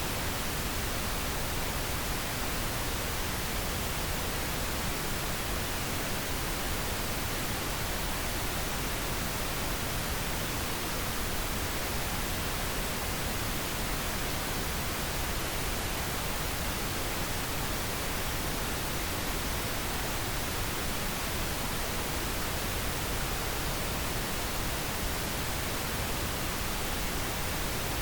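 Synthetic pink noise: a steady, even hiss that stays the same throughout, with no tones, clicks or changes in level.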